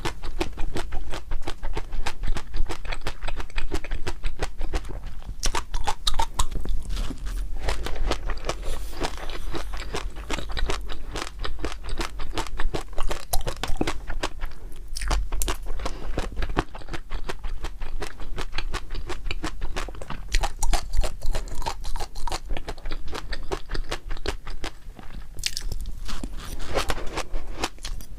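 Close-miked mouth sounds of someone chewing crunchy food, with a dense, irregular run of crisp crunches and clicks and a few brief lulls.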